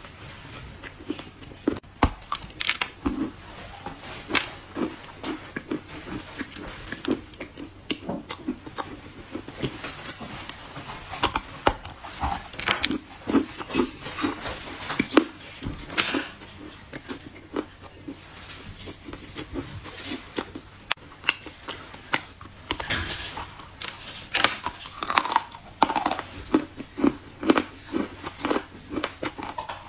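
Close-up crunching and chewing: repeated irregular crisp bites into something crunchy, each followed by crackling chews.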